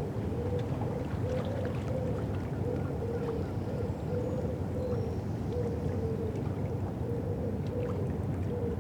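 River ambience dominated by a boat's engine: a steady low rumble with a wavering tone that pulses a little under twice a second, and scattered faint ticks over it.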